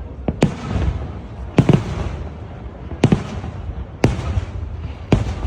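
Fireworks display: about five sharp bangs from bursting aerial shells, roughly one a second, each trailing off in a long echo, over a steady low rumble.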